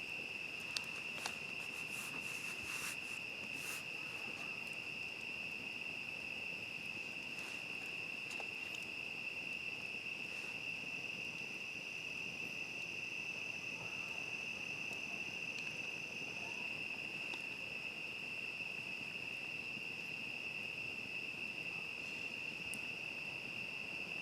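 Chorus of crickets trilling without a break at one steady high pitch. Another insect joins higher up for a few seconds midway. A few sharp crackles from the campfire sound in the first few seconds.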